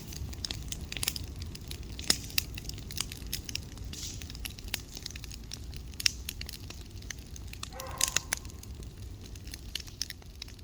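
Bonfire of burning pallet wood crackling, with irregular sharp pops.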